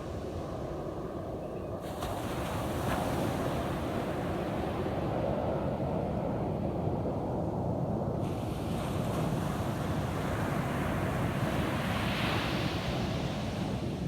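Ocean surf: waves breaking and washing up the beach as a steady rush that gets louder about two seconds in and swells again near the end. Wind buffets the microphone underneath.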